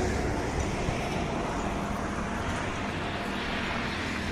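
Steady roadside traffic noise: a continuous rumble of vehicle engines with a low hum, and no distinct events.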